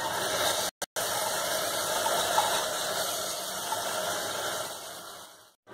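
Steady sizzling hiss from onion, tomato and spices frying in oil in a pressure cooker as drained, soaked rice is tipped in from a steel bowl. It drops out briefly a little under a second in and fades away near the end.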